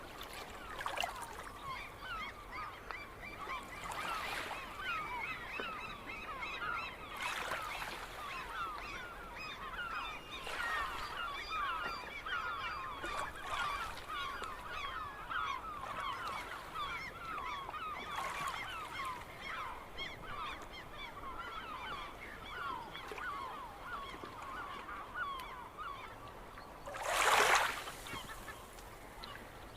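A flock of gulls calling continuously, many short cries overlapping one another. Brief rushing bursts of noise come every few seconds, with a louder one near the end.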